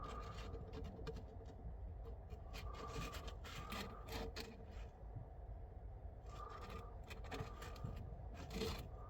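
Faint rubbing and scraping with scattered light clicks and knocks: a cloth mopping up water that ran from a freshly cut supply pipe.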